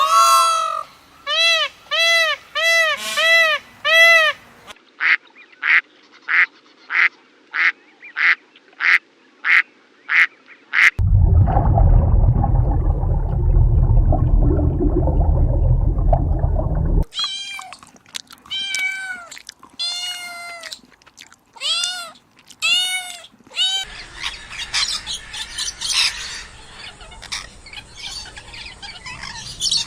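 A sequence of different animal calls in turn. First comes a run of short rising-and-falling pitched calls, then a quick series of shorter calls about two a second. Then a low, rough stretch of about six seconds, more arched calls, and a noisy, steady stretch near the end.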